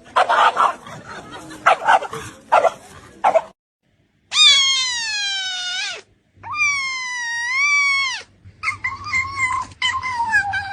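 A dog barks several times, then, after a short break, gives three long, wavering howls that slide down in pitch at the end.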